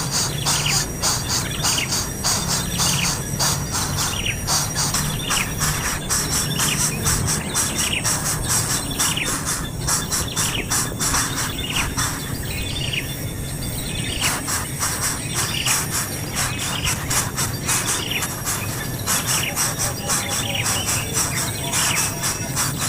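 Baby bird chirping over and over, short falling calls about once a second, over a dense fast clicking and a faint steady high whine.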